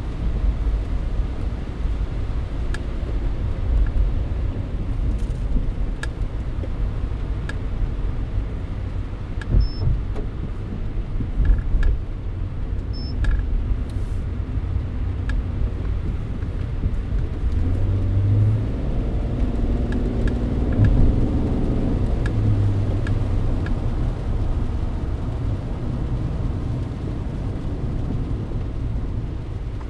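Mercedes-Benz W124 driving in the rain, with a steady low rumble of engine and tyres and faint scattered ticks. Past the middle, a low engine hum swells and fades for a few seconds.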